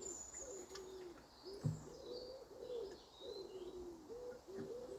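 A pigeon or dove cooing over and over, with small birds chirping faintly. A single soft knock comes about a second and a half in.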